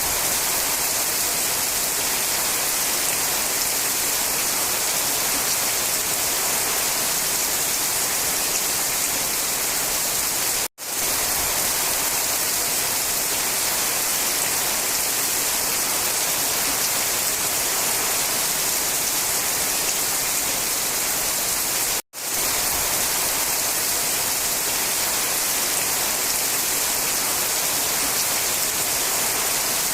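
Steady rain, a dense even hiss strongest in the high range, that cuts out for an instant twice, about eleven seconds apart.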